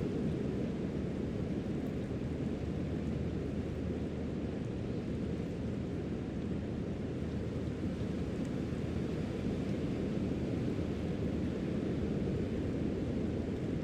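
Steady low rumble of beach ambience from the ocean surf and the wind, with no distinct wave breaks or other events.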